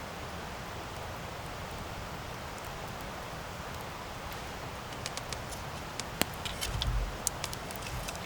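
Wood campfire burning with a steady hiss. From about five seconds in, sharp crackles and pops of the burning wood come in a quick scattered run, with a few low rumbles near the end.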